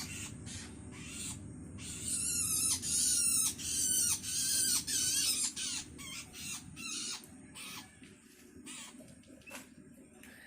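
Long-tailed shrike chicks giving harsh, wavering begging calls in quick succession, the calls of hungry young calling for their parent. They grow fainter and sparser about seven seconds in.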